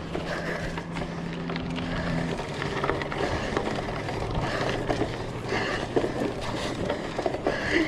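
Hybrid bike riding along a trail: steady tyre and ride noise with scattered clicks and rattles, and wind on the microphone.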